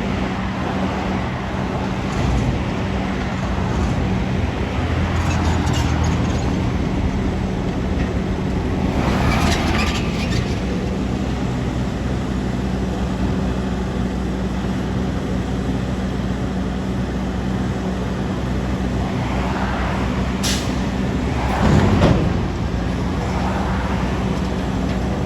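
Diesel garbage truck engine running steadily. There is a short rush of noise about nine seconds in, then a sharp click and a louder rush near the 21–22 second mark.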